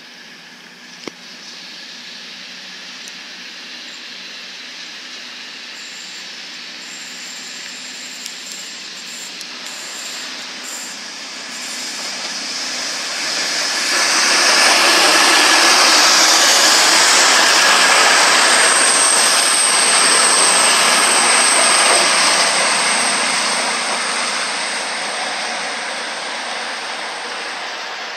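CrossCountry Voyager diesel multiple unit passing: the noise of its engines and wheels on the rails grows over the first dozen seconds, is loudest for several seconds in the middle, then fades as it draws away.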